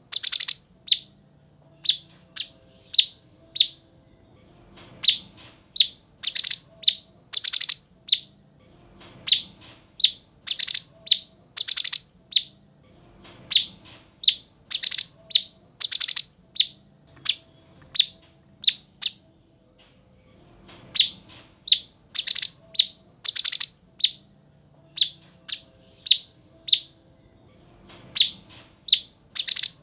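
Cucak cungkok songbird singing sharp, clear chirping phrases: clusters of quick high notes repeating every few seconds with short gaps between, as a bird-tutoring recording.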